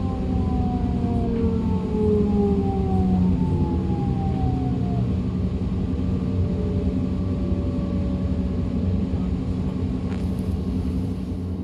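DB Class 425 electric multiple unit heard from on board: the traction converters' whine in several tones that glide steadily downward over the first few seconds, the falling pitch of a train slowing, then settles, over the steady rumble of the running gear.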